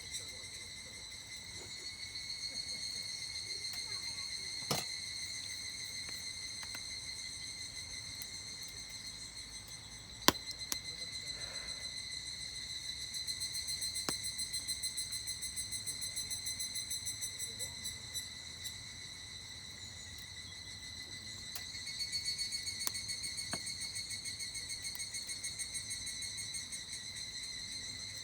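Higurashi (evening cicadas) calling in a rapid pulsing chorus that swells and fades in waves. A few sharp pops from a crackling campfire come over it, the loudest about ten seconds in.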